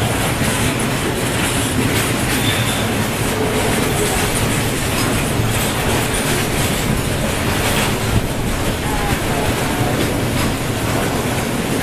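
Freight train of tank wagons rolling past at steady speed: a continuous rumble with wheels clattering over rail joints, and a few brief faint wheel squeals.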